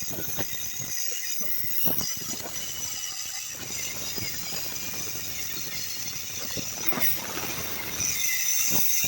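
Homemade angle grinder driven by a 775 DC motor, its cutting disc cutting into thick iron: a continuous high-pitched screech with irregular scraping as the disc bites into the metal.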